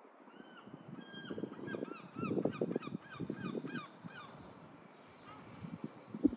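A bird calling a fast run of short, repeated piping notes for about three seconds, over gusts of wind on the microphone. A single knock near the end.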